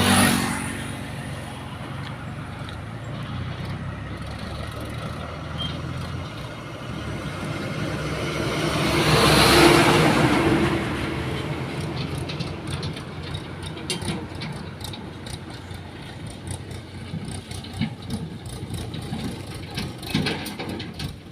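Diesel engine of a JCB 3DX backhoe loader running under load. It swells to a loud rev about halfway through and then settles back. Scattered knocks and rattles follow in the second half.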